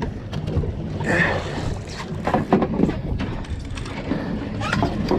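Small boat on the water: a steady low hum with wind and water noise, and scattered short knocks and splashes throughout.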